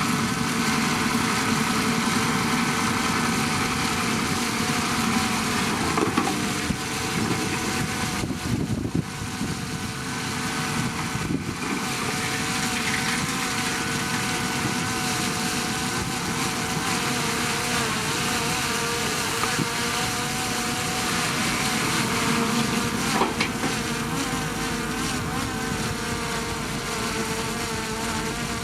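Heavy earthmoving machinery's diesel engine running steadily, with a few brief knocks.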